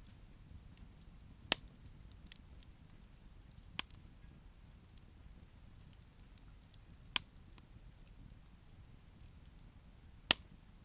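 Wood bonfire burning: four sharp pops from the burning wood, with fainter crackles between them over a low steady rush.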